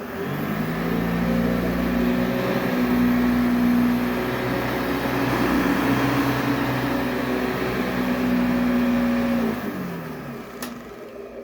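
1971 Eureka 2093A direct-air upright vacuum running on its high power setting: the motor spins up at the start and runs steadily with a whine for about nine seconds, then is switched off and winds down, falling in pitch. A single click comes near the end.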